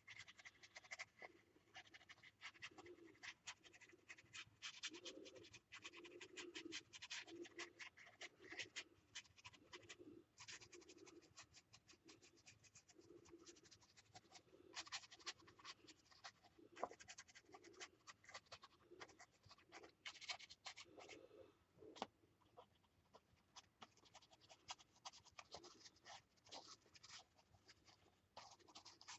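Faint scratching of a paintbrush scrubbing paint over a gessoed paper page in short, repeated back-and-forth strokes.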